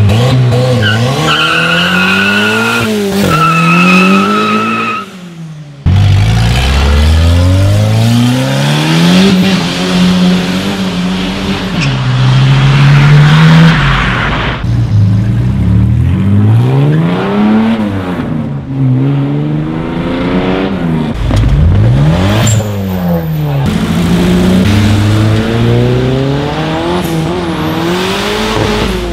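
Modified small cars, old VW Gol and Voyage types, accelerating hard one after another. The engine pitch climbs and then drops at each gear change. A high steady whistle sits over the engine in the first few seconds.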